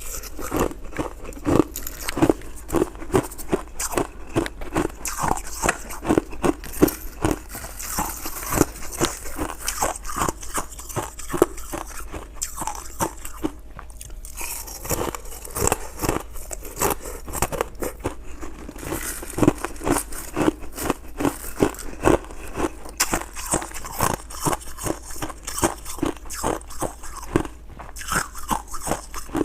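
A person biting and chewing crunchy frozen ice, heard close up: a dense, continuous run of crisp crunches that eases off briefly about halfway through.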